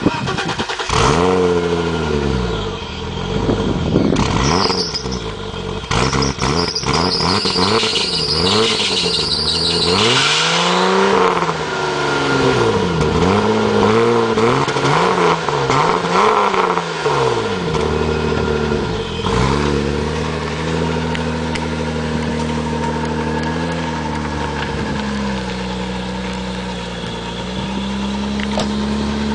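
BMW E30 325i straight-six exhaling through a Magnaflow muffler, blipped repeatedly for about the first seventeen seconds, then settling to a steady low speed. A high squeal rides along during the revs in the first half: the engine belt, unlubricated.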